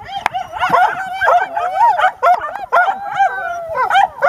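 Labrador puppies whining and yipping in a continuous run of short, high, rising-and-falling cries, several overlapping at once.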